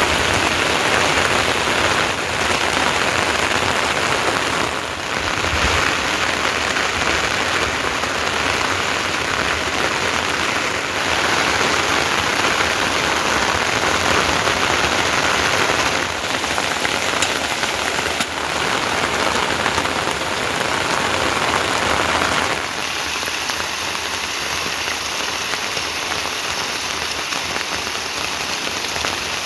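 Steady rain falling, a dense even hiss. The level dips briefly a few times and is a little lower over the last several seconds.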